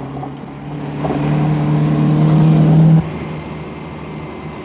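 A car engine running at speed, its note rising slightly and getting louder. About three seconds in it drops suddenly to a quieter, steady engine hum, as heard from inside the car.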